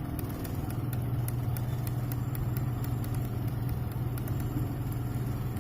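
A steady low machine hum with faint, regular ticking.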